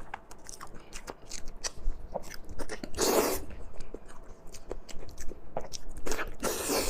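Close-miked eating: a person biting and chewing food with many small wet mouth clicks, and two louder, longer noisy bursts, one about three seconds in and one near the end.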